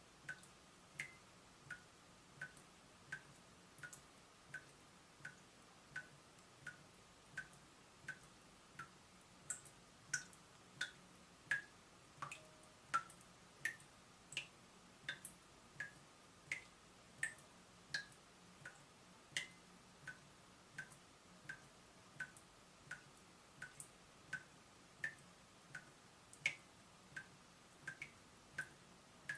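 Leaking tap dripping steadily, about three drops every two seconds. Each drop is a short plink, and some are louder and higher-pitched than others.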